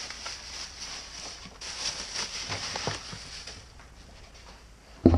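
Rustling and scattered light knocks from items being handled and moved, then a loud clatter of several sharp knocks right at the end.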